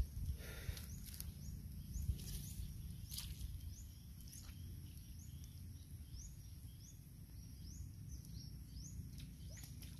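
A bird calling with short rising chirps, repeated evenly about two to three times a second from a few seconds in, over a steady low rumble of wind on the microphone, with a few brief rustles.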